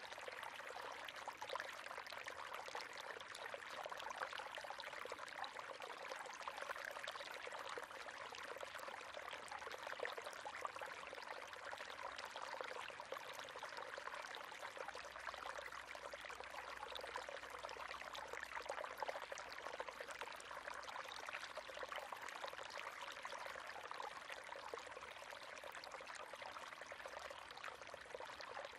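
River water flowing and splashing steadily, a constant rushing burble with fine trickling detail.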